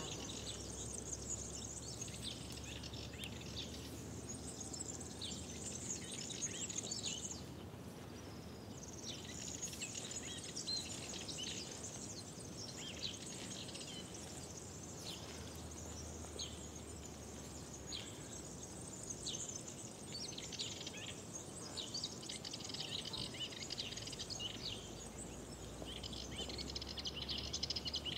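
Many songbirds chirping and singing together in a dense spring chorus, with a short lull about a third of the way in.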